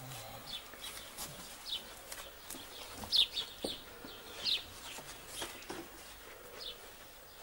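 Small birds chirping: short, high chirps that fall in pitch, scattered irregularly, with the loudest a little after three seconds and again past four seconds.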